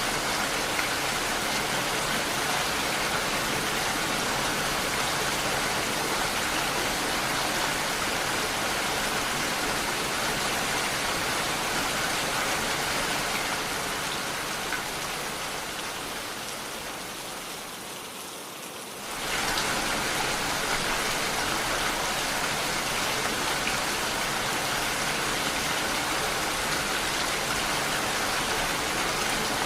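Steady rain, an even hiss of falling drops. A little past the middle it fades away over several seconds, then cuts back in suddenly at full level, like a splice in a looped recording.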